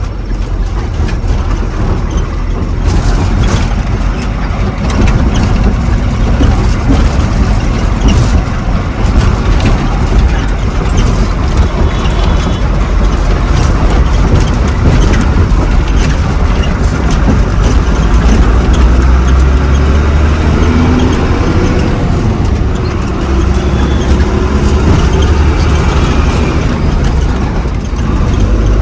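A truck on the move: its engine running with a steady low rumble, mixed with road noise.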